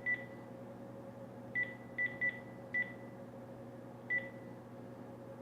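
Phone keypad beeps as a number is dialled: six short beeps of one pitch at uneven spacing, over a faint steady hum.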